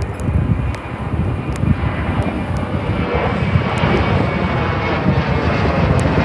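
Jet airliner engines, a steady rumble that grows louder about three seconds in, with wind buffeting the microphone.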